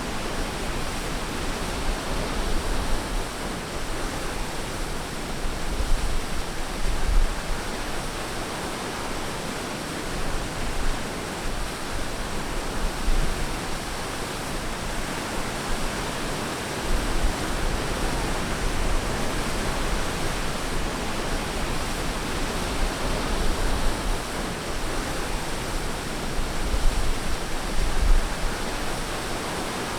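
Ocean waves breaking on a beach: a steady wash of surf that swells louder every few seconds.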